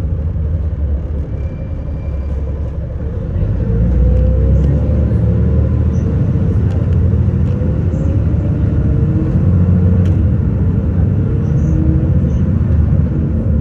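City bus engine and road noise heard from inside the bus. It gets louder about three and a half seconds in, with the engine note climbing as the bus speeds up.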